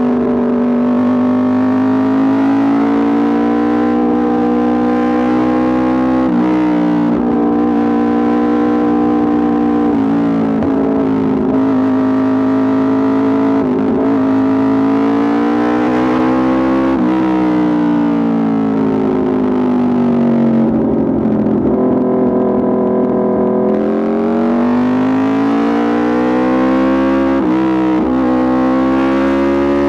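Aprilia RSV4 RR's V4 engine through an Austin Racing exhaust, running under way at high revs, its pitch rising and falling with the throttle and breaking sharply a few times, like gear changes.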